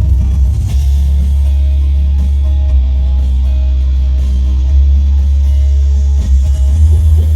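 Loud live rock band music over a concert sound system: electric guitar and drum kit above a heavy, steady bass, with no singing yet.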